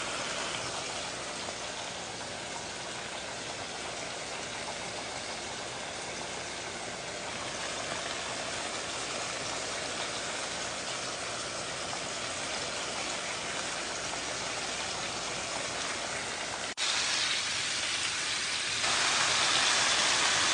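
Food frying in a hot pan, a steady sizzle. It cuts off for an instant about three-quarters of the way in, comes back louder, and gets louder again near the end.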